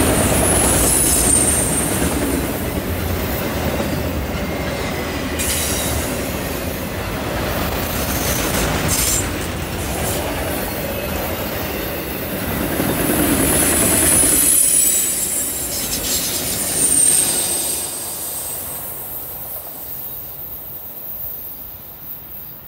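Freight train of autorack cars rolling past: a steady rumble of wheels on rail with clicks and high-pitched wheel squeal, heard twice. The rumble drops away about fifteen seconds in and fades as the end of the train moves off into the distance.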